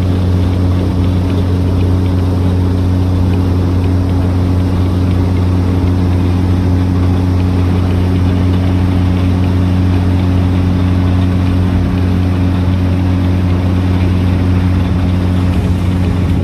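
A vehicle engine idling steadily: a low, even hum that holds one pitch throughout.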